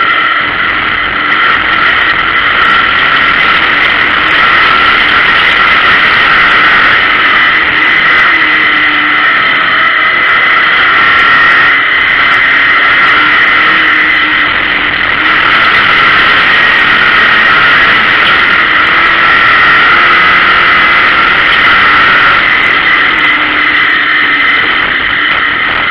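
Engine of a stripped, roll-caged folk-race car running hard under load, heard loud from inside the cabin as a steady, high-pitched drone with small swells as the throttle changes.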